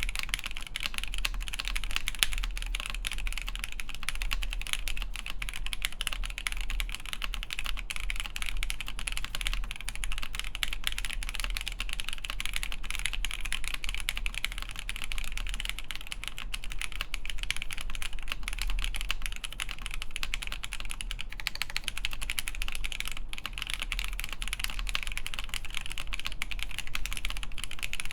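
Continuous typing on a Han's 80 (NEO 802) mechanical keyboard with lubed Alpaca v2 linear switches on an FR4 plate, with clipped, lubed Cherry stabilisers: a dense, unbroken stream of keystroke clacks.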